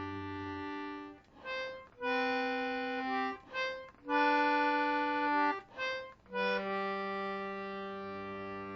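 19th-century George Jones G/D Anglo concertina playing the instrumental close of a song. Short reedy chords come with brief breaks between them, then one long chord is held from about six seconds in.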